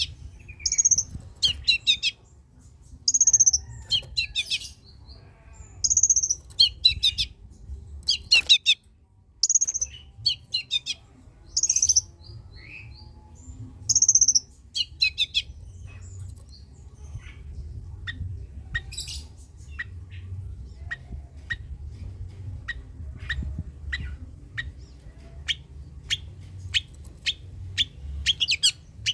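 Long-tailed shrike (cendet) calling: short, harsh high phrases repeated about once a second, changing about halfway to a run of short sharp chips about two a second. A low rumble lies underneath.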